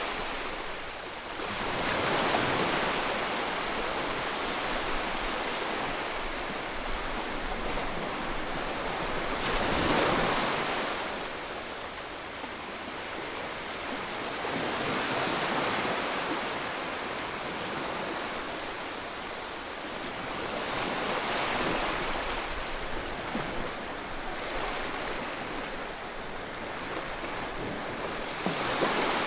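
Sea waves breaking on the shore: a continuous rush of surf that swells louder every several seconds as each wave comes in and then falls back.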